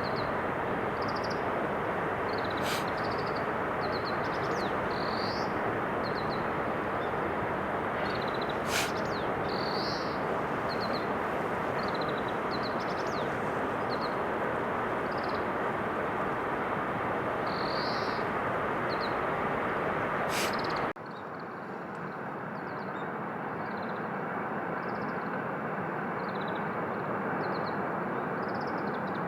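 Small birds chirping again and again over a steady rushing background noise. The sound cuts off abruptly about two-thirds of the way in and resumes quieter, with the chirps still going.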